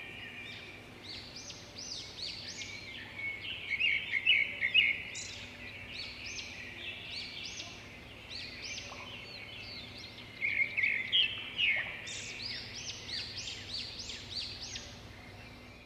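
Birds calling: a busy chorus of quick chirps and sweeping whistled notes, loudest in bursts about four seconds in and again about ten to eleven seconds in, over a faint steady low hum.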